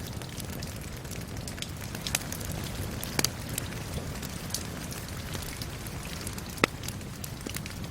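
Steady rain mixed with a crackling wood fire: continuous rain hiss with scattered sharp pops and snaps from the burning wood, the sharpest about three seconds in and near the end.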